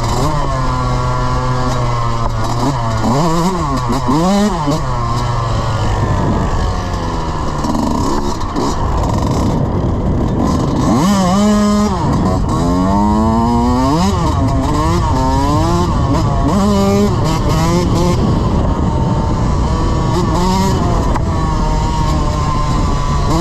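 Dirt bike engine being ridden, revving up and falling back again and again as the throttle opens and closes, with a rush of wind and tyre noise underneath.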